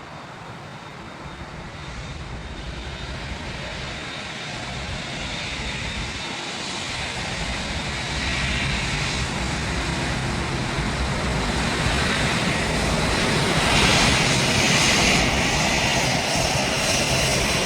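Airbus A380-861's four Engine Alliance GP7200 turbofans running at taxi power, a steady jet rush and whine that grows louder throughout as the aircraft approaches.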